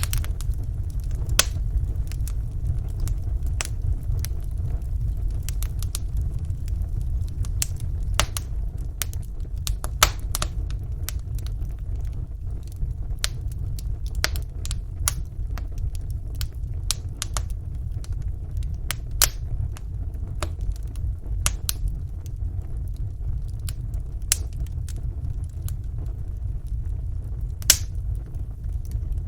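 Wood fire burning in a fireplace: a steady low rumble with irregular sharp crackles and pops, a few of them louder.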